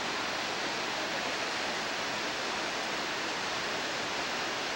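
Waterfall rushing steadily: an even hiss of falling water with no swells.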